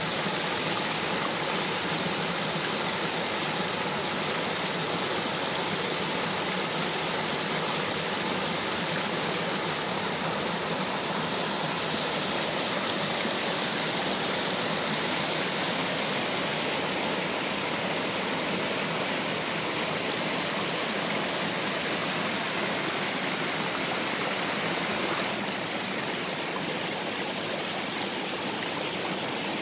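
Waterfall and stream water rushing in a steady, even flow, easing slightly about 25 seconds in.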